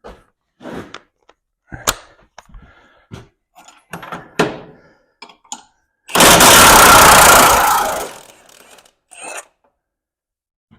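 Metal tools and sockets clinking and clanking, then about six seconds in a cordless impact wrench runs for about two seconds, the loudest sound, followed by a few more light clinks.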